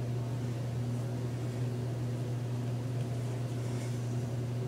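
Steady low hum with a faint hiss, unchanging throughout; a faint brief rustle near the end.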